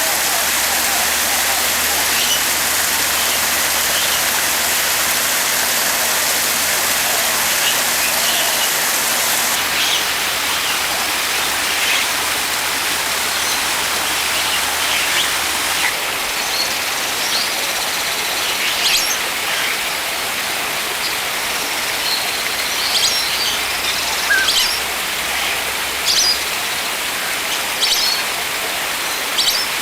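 Birds chirping in short, scattered calls over a steady rush of water noise. The chirps come more often in the second half.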